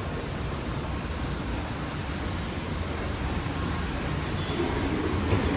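Airport people-mover train running: a steady low rumble that grows a little louder near the end.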